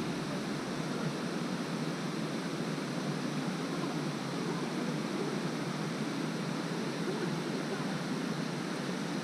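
Waterfall water rushing, a steady even noise.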